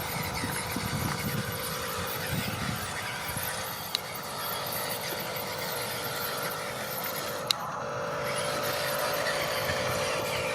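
Small electric motors and plastic gearboxes of toy RC construction models running with a steady whine, which gets stronger about three quarters of the way through, and two sharp clicks.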